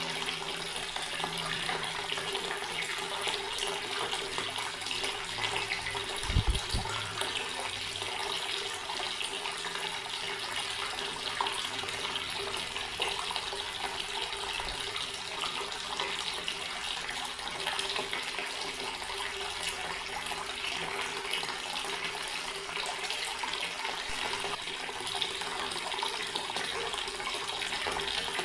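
Water running steadily from an outdoor garden tap, splashing as it falls. A brief low thump about six seconds in.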